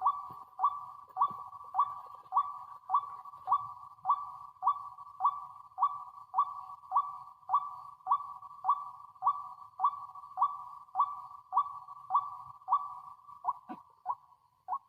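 White-breasted waterhen (ruak-ruak) calling: a single clipped note repeated evenly, a little under two a second. Near the end it breaks into a few quicker, uneven notes.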